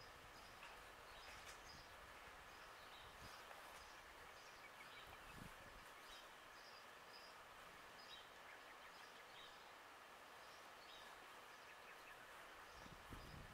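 Near silence: faint outdoor background hiss with distant birds chirping now and then.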